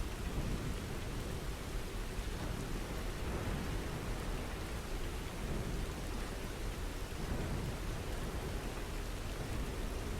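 Steady rainfall: a dense, even hiss with a low rumble underneath.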